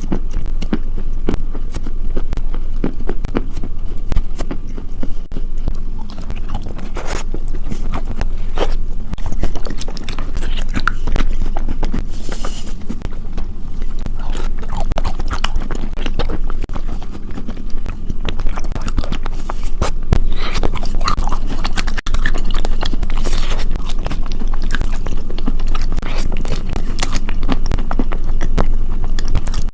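Close-miked chewing and biting of crunchy food: a dense run of sharp crackling crunches with no pause.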